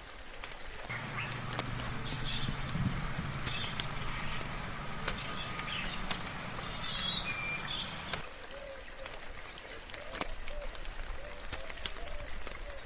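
Birds chirping and calling in gentle rain, with scattered sharp drip ticks. A low drone sits underneath and stops about eight seconds in.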